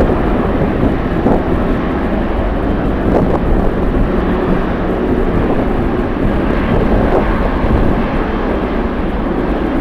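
Jet airliner engines running, a steady dense rush, over a heavy, uneven low rumble from strong wind buffeting the microphone.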